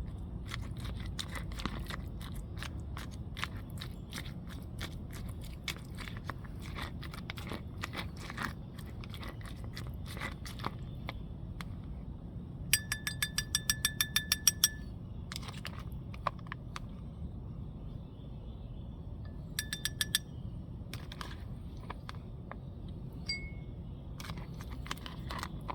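Scattered crunchy clicking. Twice a small metal bell jingles in quick runs of rapid ringing strikes, about two seconds long around the middle and briefly again a little later.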